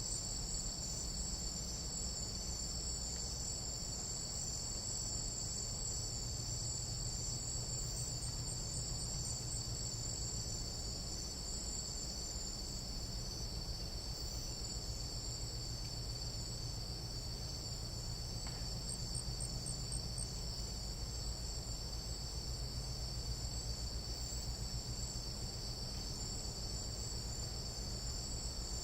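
Chorus of tropical jungle night insects, several kinds trilling at once in steady high-pitched bands, over a low background rumble. A brief run of faint fast ticks rises above the chorus about two-thirds of the way through.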